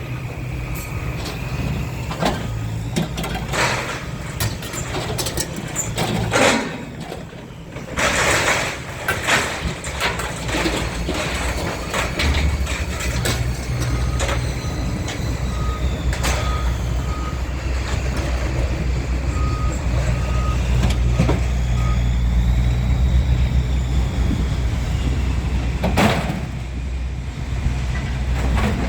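Heavy diesel machinery running, its engine drone growing stronger about halfway through, with a reversing beeper sounding in two short runs and scattered clanks of scrap metal.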